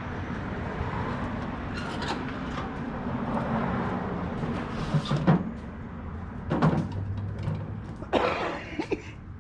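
Scraping and knocking of boxes and wooden pieces being shifted and set down, with sharper thuds about five, six and a half and eight seconds in.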